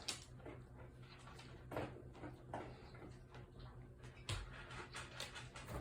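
Dogs eating from their bowls: faint, scattered clicks and crunches over a low steady hum.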